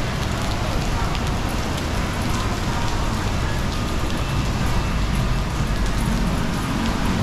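Steady plum-season rain falling, a constant hiss with a fine patter of many small drops.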